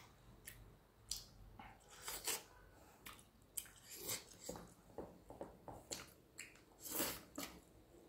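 Close-up chewing of a mouthful of fried fish and rice, heard as a string of short, soft mouth clicks, the loudest about seven seconds in.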